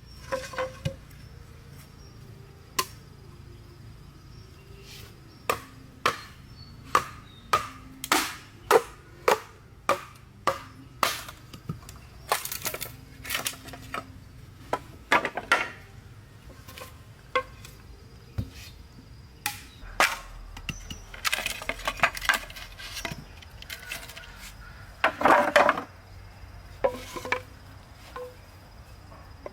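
Wood being chopped: a long run of sharp, irregularly spaced blows, with a few longer scraping stretches between them.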